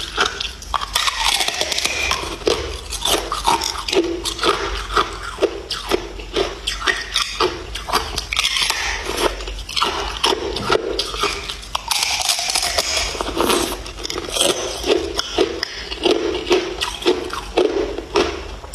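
Ice being bitten and chewed close up: a rapid, continuous run of sharp crunches and cracks as the pieces break between the teeth.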